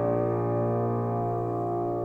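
Keyboard music: a chord held without new notes, slowly fading.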